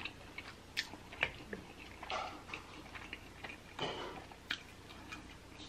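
Quiet mouth sounds of eating a birria quesadilla: soft chewing with scattered wet clicks and smacks.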